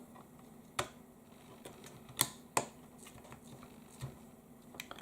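Small sharp plastic clicks and taps, a few separate ones, as the TomTom Go 500 motherboard is fitted back into its plastic housing. A faint steady hum lies beneath.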